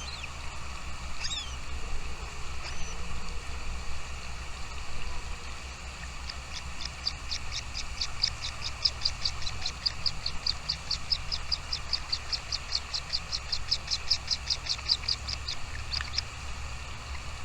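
A small bird calling: a few short high chirps near the start, then a long, even run of short high notes, about five a second, for some nine seconds before it stops.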